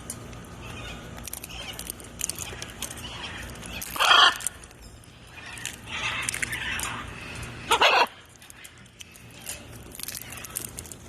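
Macaw parrots calling: two loud, harsh squawks about four and eight seconds in, with softer calls between them.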